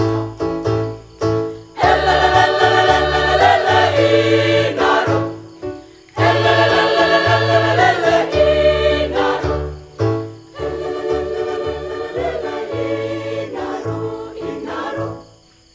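Choir singing in phrases with short breaks between them, over a steady low instrumental accompaniment.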